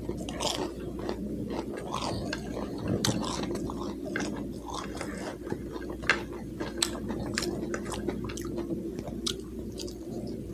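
A man chewing a mouthful of fries, with frequent wet smacks and small clicks of the mouth and an occasional crunch, over a steady low hum.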